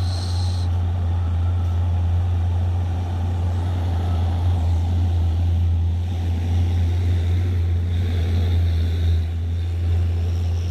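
Heavy truck's diesel engine labouring up a slippery climb, a steady low drone that doesn't let up. A brief hiss sounds right at the start.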